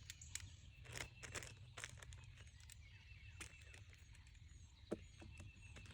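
Plastic floor sheeting being handled: faint rustling and light scattered clicks, with one sharper click about five seconds in.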